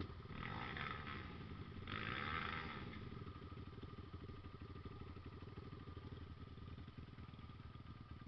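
Vehicle engine running with a steady low pulsing, with two short bursts of louder rushing noise in the first three seconds, after which it runs on more quietly.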